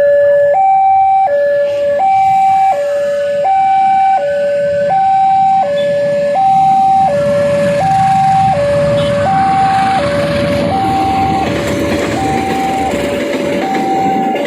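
Railway level-crossing warning alarm sounding a repeating two-tone signal, a higher tone and a lower tone alternating about every 0.7 s. From about halfway through, a rumble builds beneath it as a train approaches the crossing.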